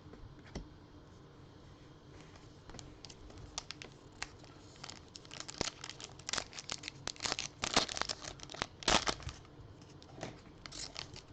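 Plastic wrapper of a Topps Holiday trading-card pack being torn open and crinkled, in a run of sharp crackles. Faint rustles and clicks come first, and the crackling grows dense about halfway through.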